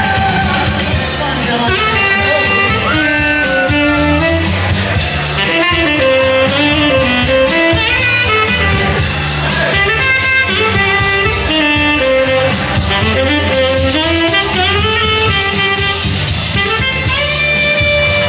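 A live band playing in a restaurant: guitar, drum kit and a melody line, continuous and loud, in a jazzy or bluesy style.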